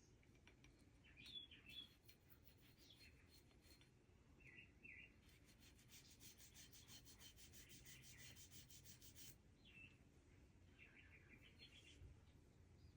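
Faint, quick scrubbing of a toothbrush over a pistol slide, spreading lubricant, with a run of rapid strokes in the middle that stops suddenly about nine seconds in. Faint bird chirps come and go over it.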